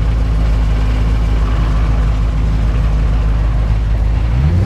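Car engine idling steadily at low revs, then rising in pitch near the end as it is revved or pulls away.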